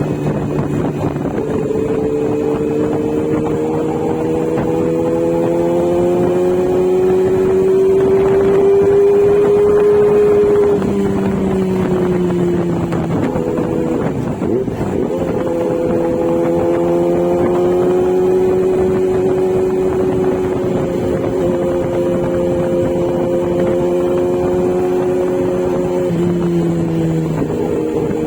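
Kawasaki Z900's inline-four engine running under way, with some wind noise. The engine note climbs slowly, then steps in pitch a few times as gears are changed.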